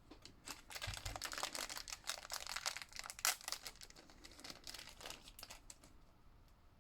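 Plastic packaging crinkling and crackling as it is handled. It is a dense run of small irregular crackles, busiest in the first half and thinning out toward the end.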